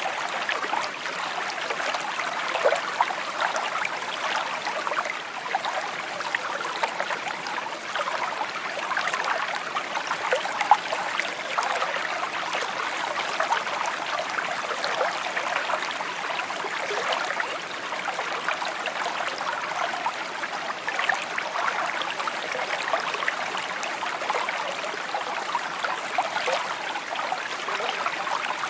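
A shallow stream babbling and trickling over stones, a steady rush of water full of small splashes and gurgles.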